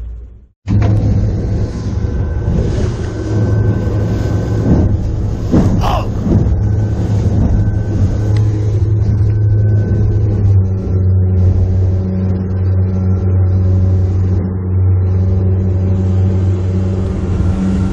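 A pleasure boat's engine running steadily under way as a loud low drone, with wind and water noise hissing over it.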